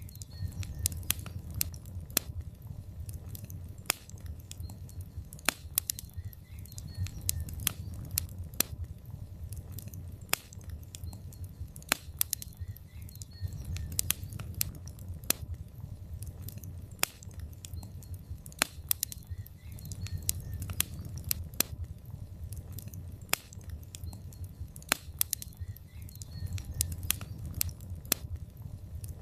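Wood fire in a fireplace crackling: irregular sharp pops and snaps from the burning logs over a low, steady rumble of the flames.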